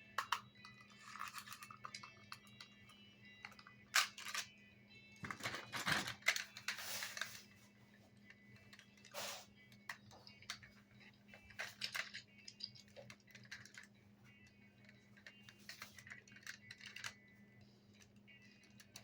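Plastic toy construction vehicles being handled: irregular clicks, knocks and short rattling clatters, busiest a few seconds in, over faint music and a low steady hum.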